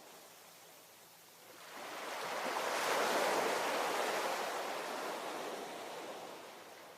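A single ocean wave breaking and washing in: the surf noise builds about a second and a half in, peaks, and fades away over the next few seconds.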